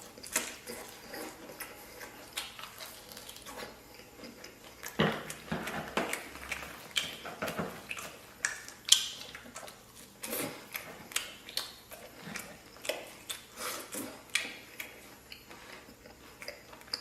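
Close-up eating sounds of a person chewing grilled lamb rib: irregular mouth clicks and smacks, several a second.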